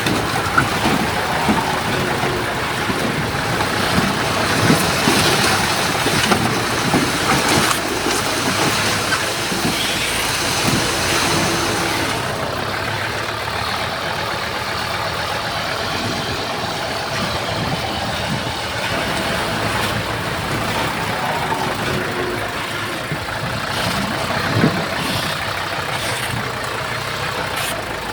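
Diesel engines of heavy earthmoving machinery running steadily, with scattered clanks and knocks, one louder than the rest near the end.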